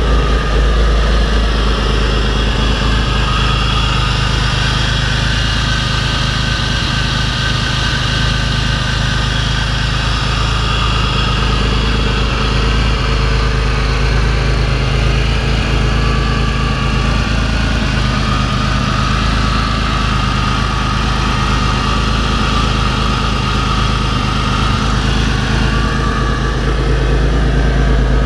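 Pontiac Fiero engine idling steadily through a newly fitted Flowmaster exhaust.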